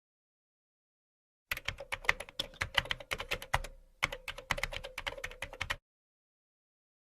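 Typing on a keyboard: fast, irregular key clicks with a short pause midway, starting about a second and a half in and stopping near the end.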